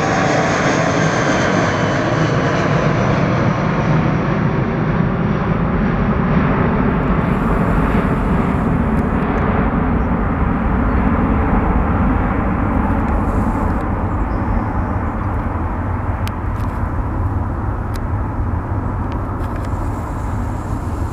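Airbus A320 jet engines at takeoff power: a steady loud roar with a falling whine in the first seconds. The hiss on top fades and the roar slowly eases off as the airliner departs.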